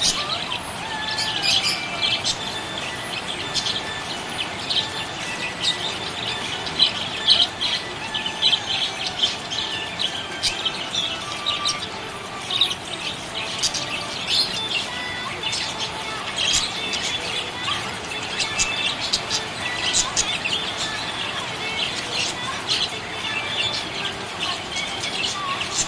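Budgerigars chirping and warbling in a continuous stream of short, quick chirps.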